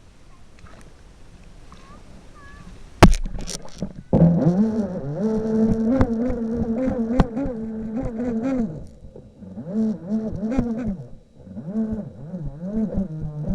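Remote-control boat's motor buzzing: it starts about four seconds in after a sharp knock, holds a steady pitch for a few seconds, drops away, then comes back rising and falling in pitch as the throttle is worked.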